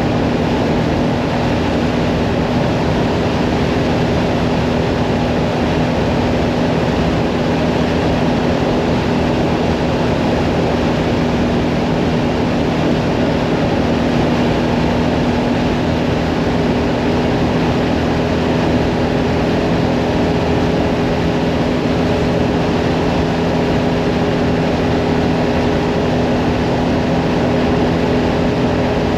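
Hyosung Mirage 650 V-twin motorcycle engine running at a steady cruising speed, its pitch holding constant, under a steady rush of wind and road noise.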